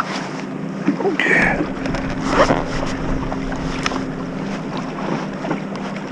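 Wind buffeting the microphone aboard a fishing kayak, with scattered knocks and clicks of gear being handled in the boat over a faint steady low hum; a brief high squeak about a second in.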